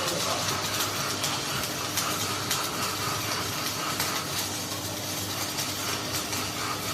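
Steady machine noise, a hum under a hiss, with irregular sharp ticks and clicks.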